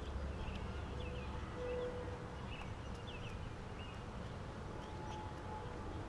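A few short, falling bird chirps in the first two-thirds, over a steady low rumble.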